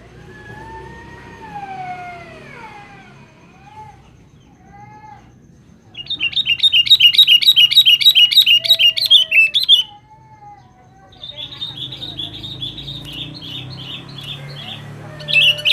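Sooty-headed bulbul calling: slurred whistled notes that glide down in pitch, then a loud, fast chattering series of about seven notes a second starting about six seconds in. A softer chattering run follows, and a loud burst comes near the end.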